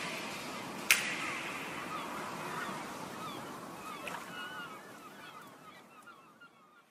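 A sharp click about a second in, then birds calling in short repeated calls over a light hiss, all fading away toward the end.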